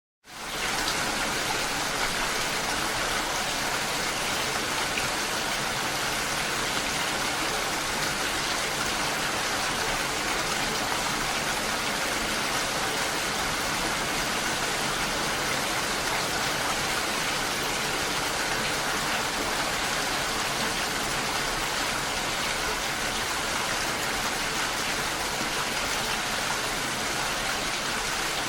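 Steady, even rain hiss with no let-up. It fades up quickly at the very start.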